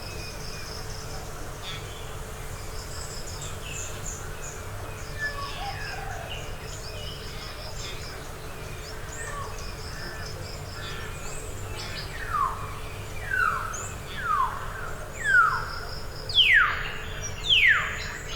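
Tropical forest ambience: insects chirring in repeated high trains of pulses, with scattered bird chirps. About two-thirds of the way in, a bird gives six loud calls in a row, each falling steeply in pitch, roughly one a second.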